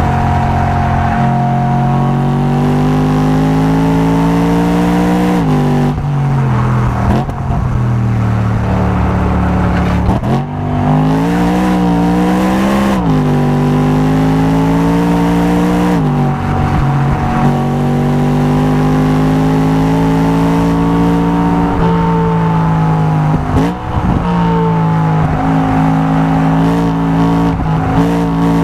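Performance car engine being driven hard on a race circuit. Its pitch climbs and falls with the throttle, drops sharply at gear changes several times, and rises in a few quick bursts between them.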